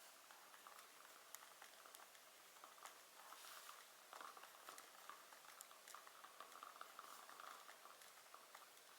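Wood fire in a fireplace crackling faintly: a soft hiss with many small irregular pops and snaps.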